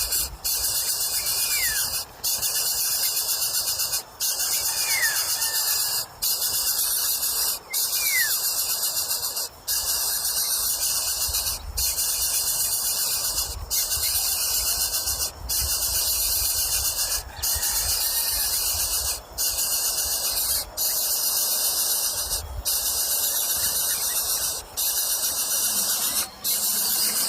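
Steady high-pitched insect buzzing, broken by brief pauses every second or two, with a few short falling bird chirps in the first eight seconds.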